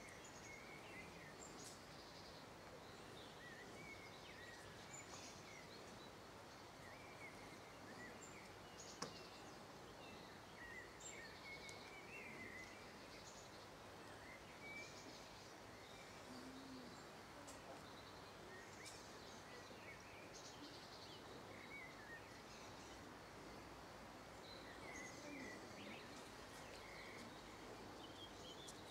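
Quiet outdoor ambience with faint, scattered bird chirps, plus a single sharp click about nine seconds in.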